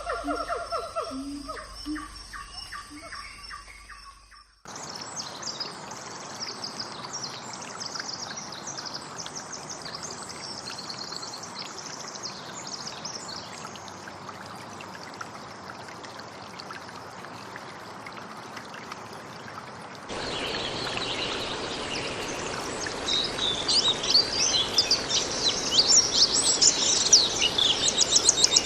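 Birds calling and chirping over a steady hiss of outdoor ambience. The sound changes abruptly twice: about five seconds in, lower pitched calls give way to high chirps, and about twenty seconds in it turns louder, with fast high chirps and trills.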